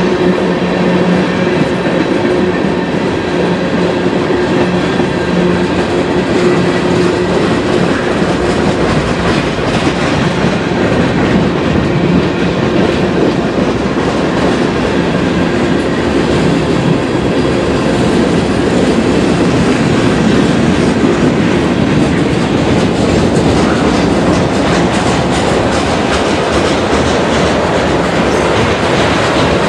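Freight cars (tank cars, boxcars and covered hoppers) rolling steadily past, their steel wheels clicking over the rail joints with a continuous rumbling wheel-on-rail noise.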